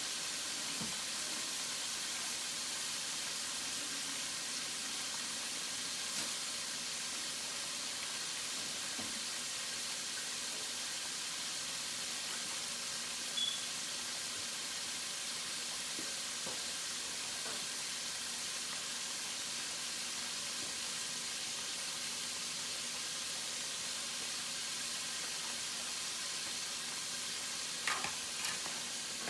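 Chicken wings frying in hot oil, a steady sizzle throughout, with a short high chirp about halfway through and a few light knocks near the end.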